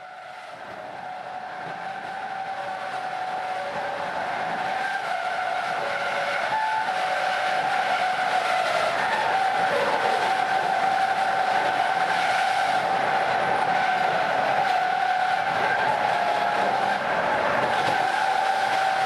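Railway track 'singing': train wheels running on the rails with a whistling, slightly wavering tone and a fainter higher tone above it, over the rumble of the running train. It grows louder over the first several seconds as the train gathers speed, then holds steady. The uploader puts it down to something in the track, perhaps unusually worn rail heads or a slightly narrow gauge making the wheel tyres rub harder on the rails.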